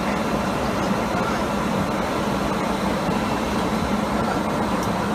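Steady airliner cabin noise: an even rush of engines and cabin ventilation with a low hum.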